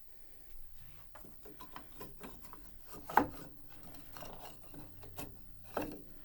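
Wooden piano parts being handled and rubbed, with scattered small clicks and one sharp knock about three seconds in.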